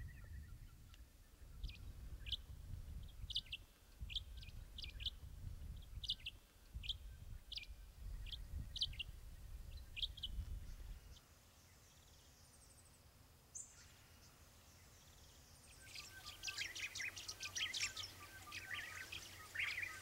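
Small birds chirping faintly: one bird's short, sharp chirps about twice a second, a pause of a few seconds, then several birds chirping together near the end. A low rumble runs under the first half.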